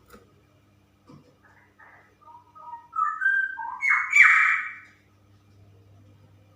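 Straw-headed bulbul (cucak rowo) singing: a few soft notes, then a loud burst of liquid warbling notes about three seconds in that lasts about two seconds.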